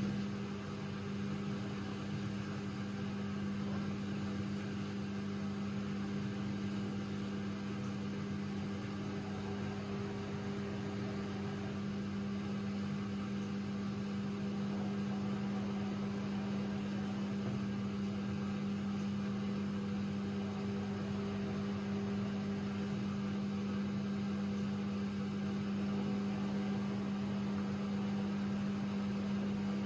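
AEG Lavamat 6610 washing machine running with a steady mechanical hum, one even tone held throughout.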